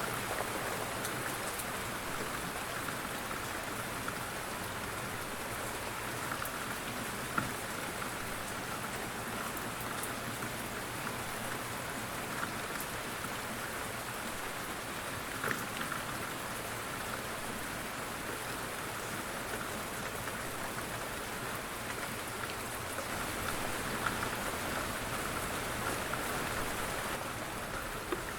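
Steady light rain falling on a surface, an even patter with scattered individual drops heard a little more clearly now and then.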